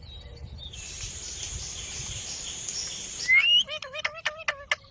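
A steady high hiss for about two seconds, then an Indian ringneck parakeet gives a short rising whistle followed by a quick run of about six clipped chirps.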